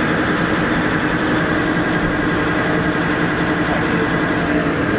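Steady running hum of a passenger railcar standing at a platform, heard from inside the car by its closed doors.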